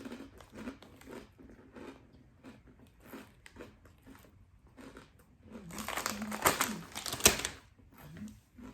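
Crunchy potato chips being chewed with small, soft crunches, then about six seconds in a loud crinkling of the chip bag lasting a second or so.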